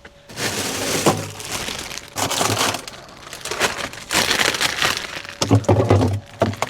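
Irregular bursts of rustling and crinkling, with a few sharp clicks and some dull knocks about five and a half seconds in: something being handled.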